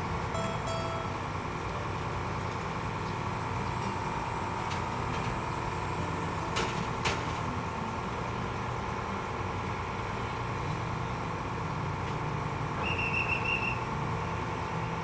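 A small car ferry's diesel engine running with a steady drone. Two sharp knocks come about halfway through, and a brief high warbling chirp comes near the end.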